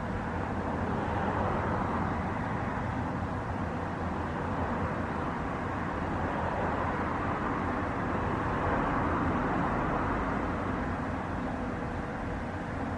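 Jet airliner engines running, a steady rushing noise over a low rumble that swells gently and eases off.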